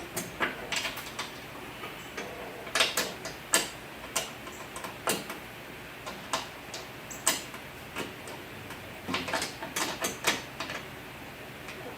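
Irregular clicks, knocks and light rattles of hands and parts working inside a car door, some in quick clusters, as the window glass is worked free of the window regulator.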